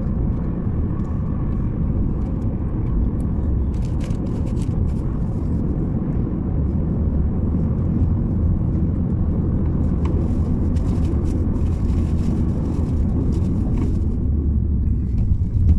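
A car driving along a road: a steady low rumble of engine and tyre noise, with a few faint ticks and rattles.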